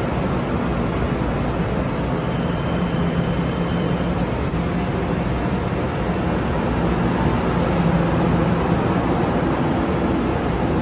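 Train running past, a steady rumble of wheels and traction motors with no horn.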